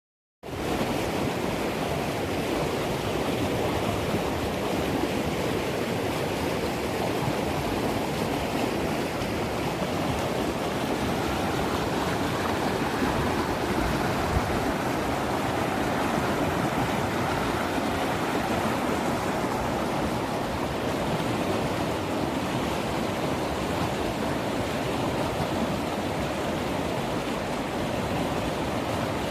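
River in flood: fast, swollen water rushing and churning over rocks in a steady, loud roar.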